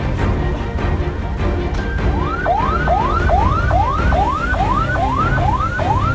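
Background music with a heavy low beat, joined a little over two seconds in by an emergency vehicle's yelp siren: quick rising sweeps, about two and a half a second.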